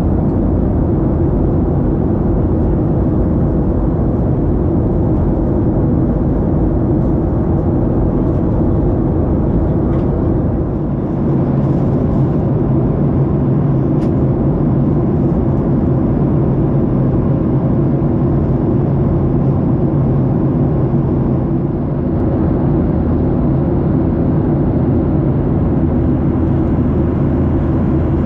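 Steady cabin drone of a Ryanair Boeing 737 airliner in flight: jet engines and rushing airflow heard from inside the cabin, a deep even rumble with a constant hum.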